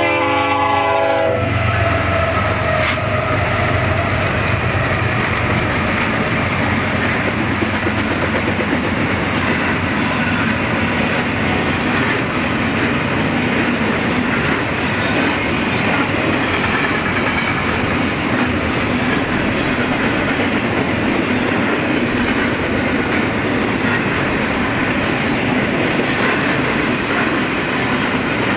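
A BNSF double-stack intermodal freight train passing close by. A locomotive horn sounds at the start and cuts off about a second in, followed by the steady noise of the container cars' wheels rolling on the rails.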